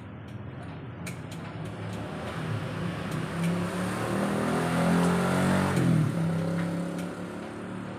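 Motorcycle engine revved up, rising in pitch and loudness for a few seconds, then dropping back abruptly about three-quarters of the way through.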